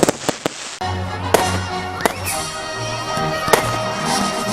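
Fireworks going off in a display, several sharp bangs a second or so apart. Music plays under them, starting about a second in.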